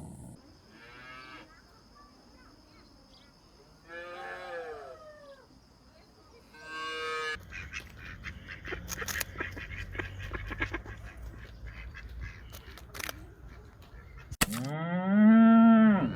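Farm animals calling: a few fainter, wavering calls early on, then a loud cow moo near the end.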